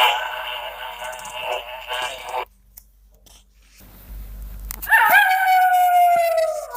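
Recorded forest-animal sounds from a sound book's speaker: one animal call ends, there is a low thump about 4 seconds in, then from about 5 seconds a long pitched call that falls slowly in pitch, in the manner of a howl.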